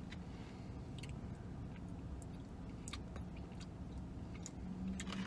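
A man biting into and chewing a McDonald's McRib sandwich, with scattered small wet clicks of the mouth. A low hummed voice tone starts near the end.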